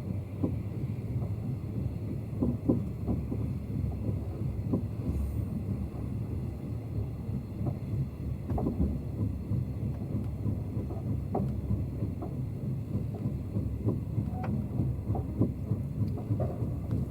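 Train running: a steady low rumble with irregular clicks and knocks from wheels and running gear.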